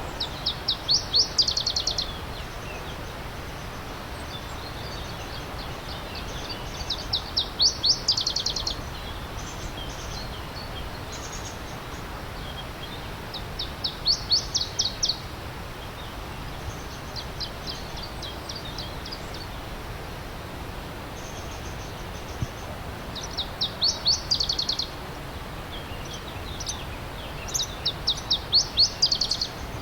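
A songbird singing short, rapid trills of high notes, about five loud phrases each lasting a second or two, with fainter song between them, over the steady rush of a stream.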